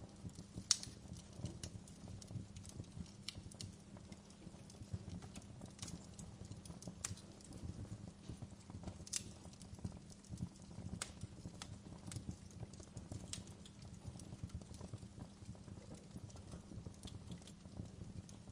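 Wood fire crackling: irregular sharp pops and snaps, a few a second, over a steady low rumble of the burning logs. The loudest pop comes just under a second in.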